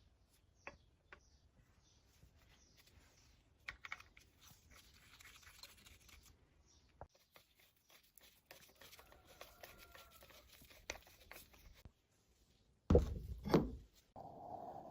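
Sparse light clicks and scratching of handling sounds, followed near the end by two loud knocks, then a steady hum begins.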